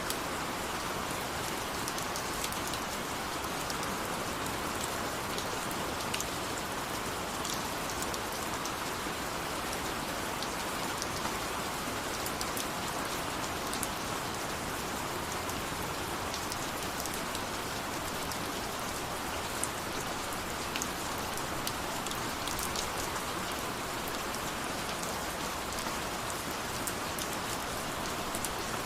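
Rain falling steadily: an even hiss with scattered sharp ticks of individual drops.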